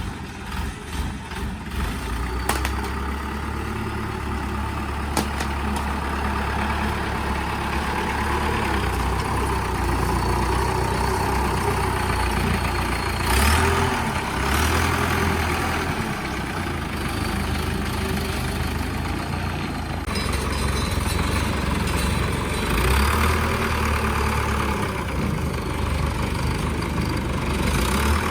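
Old truck engine running, long unused and now restored. It is uneven for the first couple of seconds, then settles into a steady idle, revving briefly about halfway through and again later.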